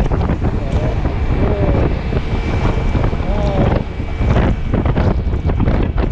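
Wind buffeting hard on the microphone of a Yamaha T-Max 530 maxi-scooter riding at road speed in heavy rain, a loud, gusting rush. A thin, steady high whistle rides over it for about three seconds in the middle.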